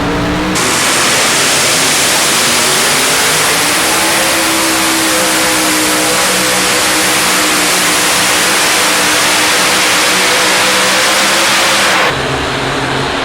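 High-horsepower pulling tractor engine at full throttle during a pull: a very loud, steady scream whose pitch climbs a little and then eases. It cuts off suddenly about a second before the end, dropping to a lower engine sound.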